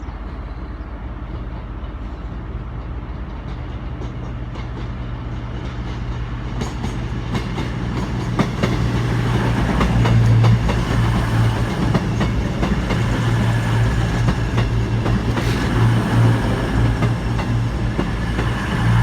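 Class 221 Super Voyager diesel multiple unit drawing into the platform. Its low engine drone grows louder over the first half, and from about six seconds in the wheels click over the rail joints.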